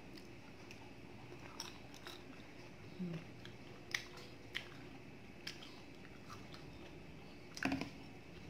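Close-up sounds of a person chewing ripe mango: soft wet smacks and mouth clicks scattered through, with a louder burst of them near the end.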